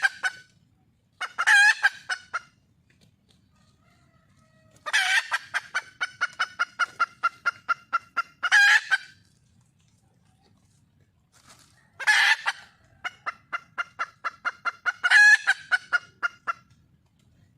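Wild junglefowl hen cackling to call a male: runs of quick, evenly spaced clucks that build up to a loud drawn-out note, repeated in about four bouts with short pauses between.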